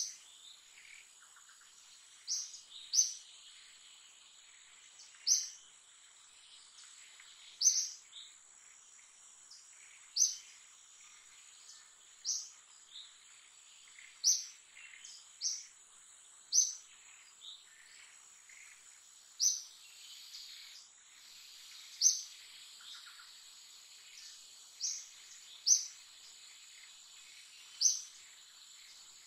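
Forest ambience: short, high bird chirps repeating every couple of seconds over a steady, high-pitched insect drone.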